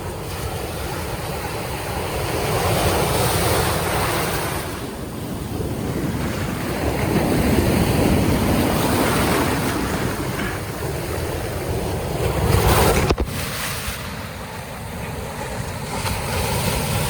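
Ocean surf breaking at a river mouth, swelling and falling in surges, with wind rumbling on the microphone. There is a single sharp click about thirteen seconds in.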